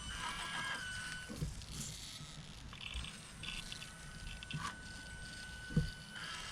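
Small electric motor of an RC rock crawler whining at low throttle as it creeps over the course, running in two spells with a few light knocks from the truck on the obstacles.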